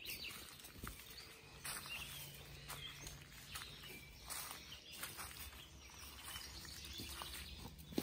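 Faint short bird chirps, a few scattered calls, over a steady outdoor background, with several soft clicks.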